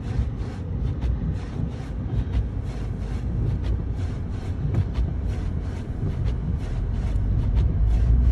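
Road noise inside a moving car on a snowy road: a steady low rumble of engine and tyres, with frequent irregular clicks and knocks.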